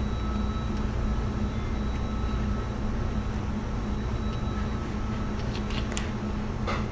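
R290 refrigeration unit running: compressor and fans giving a steady hum with a low steady tone, the unit cooling down. A few light clicks near the end.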